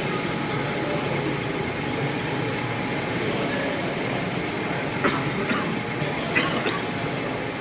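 Model trains running on an exhibition layout over a steady background hum of the hall, with a few sharp clicks about five seconds in and again about a second later.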